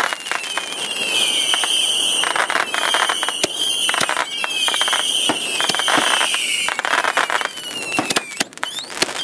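Consumer fireworks finale: shrill whistles, one after another, each sliding down in pitch, over a rapid barrage of cracks and bangs that thins out near the end.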